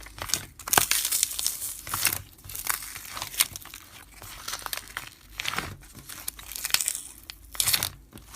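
Slime being handled by hand, a run of irregular crackling and crinkling pops.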